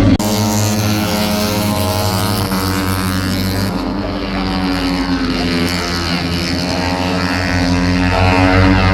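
MotoGP racing motorcycles running at speed, their engines' pitch rising and falling as they rev and change gear.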